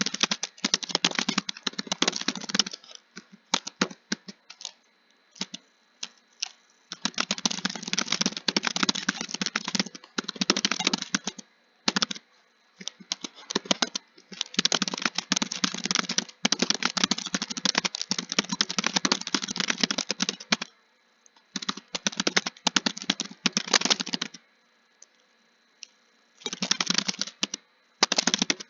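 Computer keyboard typing in fast runs of keystrokes, broken by short pauses and a few scattered single key presses. The typing stops briefly about 24 seconds in, then resumes near the end.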